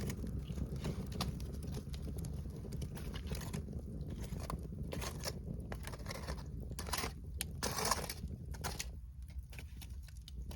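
Wood bonfire crackling and popping in irregular short cracks, over a steady low rumble.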